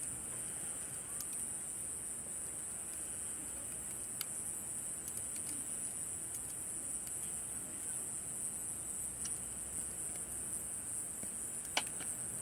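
A steady, high-pitched chorus of summer night insects, with scattered sharp crackles and pops from a wood campfire; the loudest pop comes near the end.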